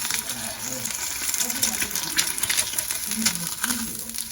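Food frying in a pan, an irregular sizzling crackle, with a faint voice underneath.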